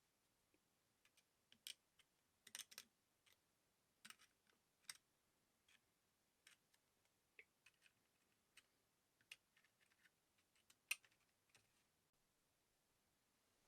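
Faint, irregular light clicks and taps of small parts and tools being handled, a few seconds apart, with a brief cluster of clicks about two and a half seconds in and one sharper click near the end.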